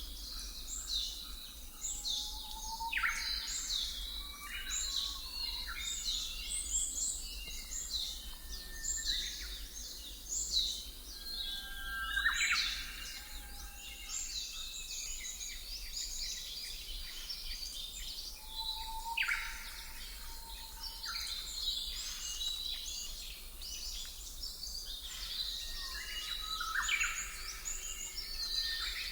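Many birds chirping and singing at once, short overlapping calls and sweeping notes with no break, over a steady low hum: a birdsong ambience used as study background sound.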